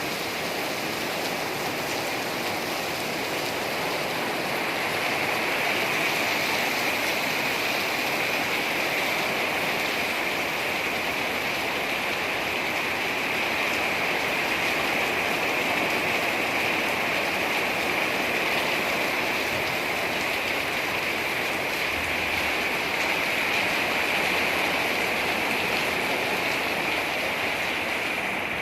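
Rain falling steadily: a continuous, even hiss with no breaks.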